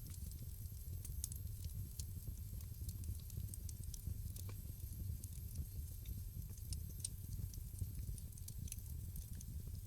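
Wood fire crackling in a fireplace: frequent sharp snaps and pops scattered irregularly over a steady low rumble of the burning fire.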